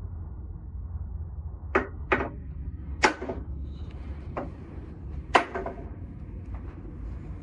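Five sharp knocks of tools on metal at uneven intervals, two of them louder with a brief ring, over a steady low hum.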